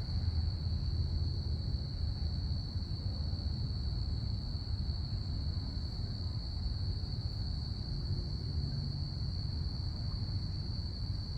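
A chorus of crickets chirping, blended into one steady high-pitched trill, over a steady low rumble.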